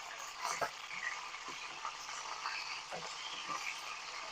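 Chicken thighs and drumsticks frying in hot oil in a pan: a steady sizzle with scattered small pops and crackles.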